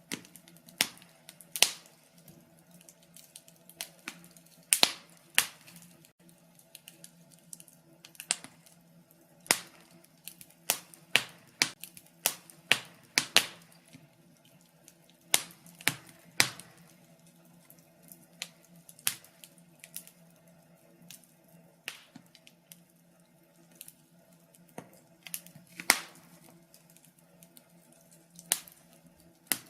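Wood fire crackling in a fireplace: irregular sharp pops and snaps, sometimes in quick clusters, with the loudest pop a little before the end, over a faint steady low hum.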